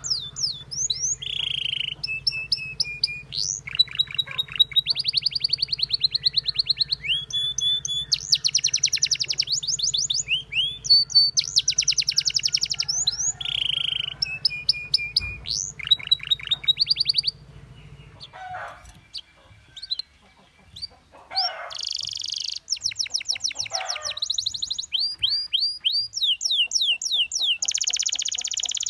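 Domestic canary singing: fast trills of rapidly repeated high notes, run after run, each at a different pitch. The song drops away for a few seconds past the middle, then resumes.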